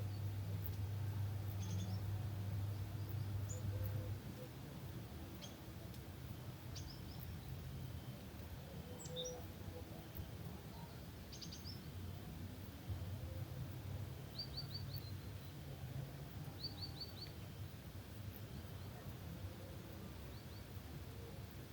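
Small birds giving scattered short chirps, with two quick trills of four or five notes in the second half, over a steady low rumble of background noise that drops about four seconds in.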